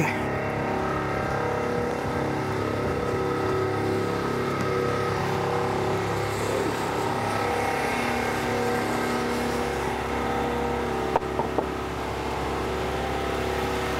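A car engine idling steadily, a low hum with no change in pace, with a few light clicks about eleven seconds in.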